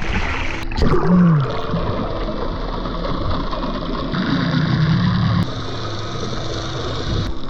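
A boat's engine running steadily under a rushing noise, with a short falling tone about a second in.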